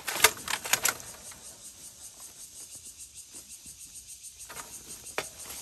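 Insects chirping in a steady, fast, even pulse, with a few sharp snaps and some rustling in the first second.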